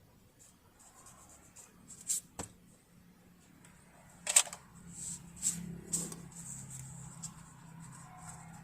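Scattered clicks and knocks of parts and tools being handled on a partly disassembled sewing machine, loudest about four and a half seconds in.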